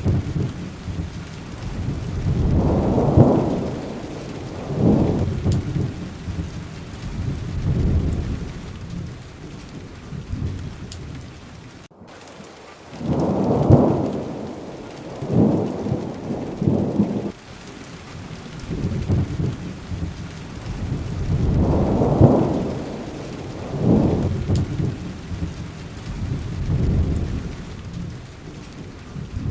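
Steady heavy rain with rolls of thunder that swell and fade about every two to three seconds. The sound cuts out for an instant about twelve seconds in.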